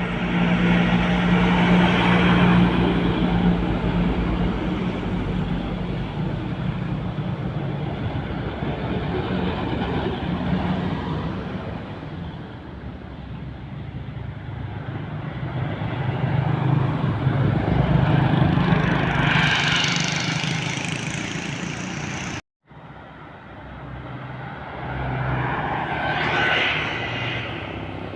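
Heavy diesel trucks passing on a road: a steady low engine drone with engine and tyre noise swelling and fading as vehicles go by, about three passes. The sound drops out for an instant about two-thirds of the way through.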